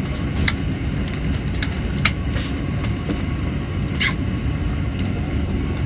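KTM ETS electric train running on the track, a steady low rumble heard from inside the carriage, with sharp clicks and ticks now and then.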